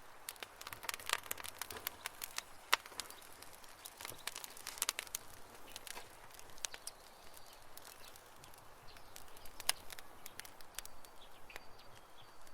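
Wood campfire crackling, with irregular sharp pops and snaps over a faint hiss; the loudest snaps come a little under 3 seconds in and near the end.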